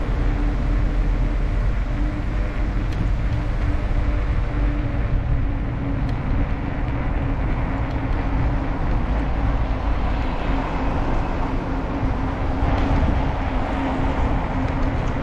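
Steady riding noise from a bicycle on the road: a low rumble of wind and tyres on the microphone, with a steady hum.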